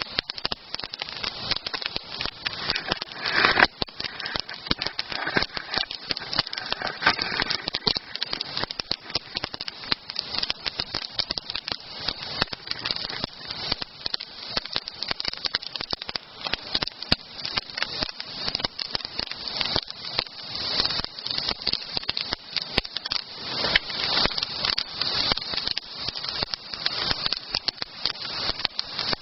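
Wood campfire burning, crackling with many small sharp snaps over a steady hiss.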